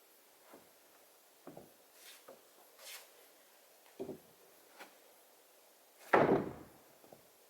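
Wooden boards being handled and set down: scattered light knocks and scrapes, then one loud wooden thump about six seconds in.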